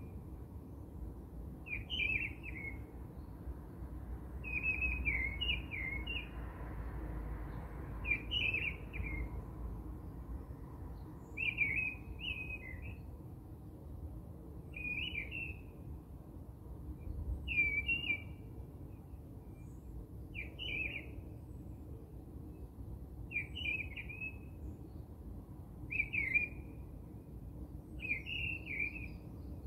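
A bird chirping: a short burst of chirps repeated about every two and a half to three seconds, over a faint low steady background noise.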